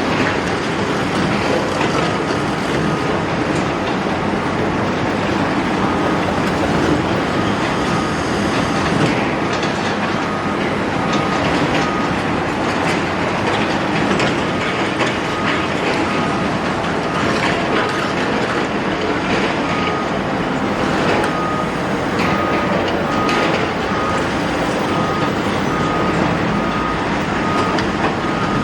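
Large excavator at demolition work: diesel engine running under load with a steady clatter of metal and debris and scattered knocks. A repeating high beeping alarm sounds briefly a couple of seconds in and again through the last third.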